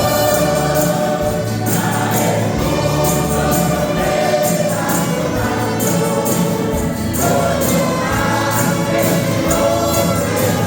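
A men's choir singing a Christian gospel song over instrumental accompaniment with a steady percussive beat.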